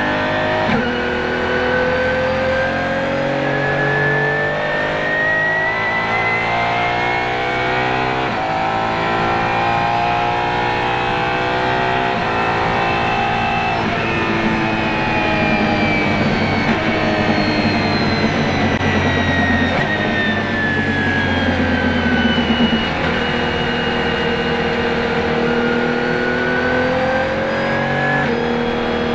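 Apollo IE's naturally aspirated 6.3-litre V12 heard from inside the cabin on track. It pulls hard through the gears, rising in pitch with clean breaks at each upshift for about the first half, then falls steadily as the car slows, and climbs again near the end.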